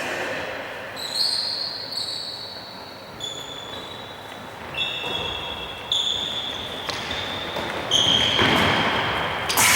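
Shoes squeaking on an indoor sports-hall floor in short high squeals during a tchoukball game, with several knocks of the ball being bounced, caught or thrown. The play gets busier near the end.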